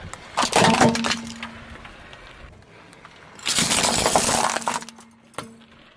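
Brittle objects crunching and breaking under a car tire in two bursts of dense crackling snaps, the second about three and a half seconds in, with a single sharp crack near the end.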